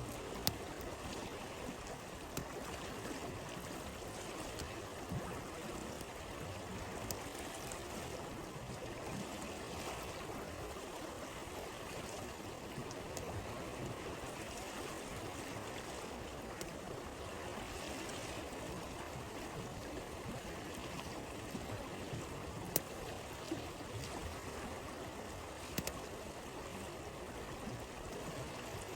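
Steady rushing of a flowing stream, with a handful of sharp, scattered pops from a crackling campfire.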